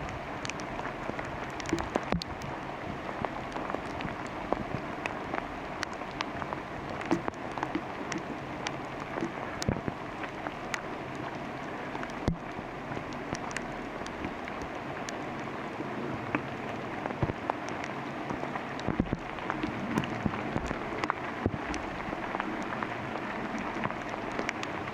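Steady rain falling through the forest canopy, with frequent sharp, irregular taps of individual drops hitting close by.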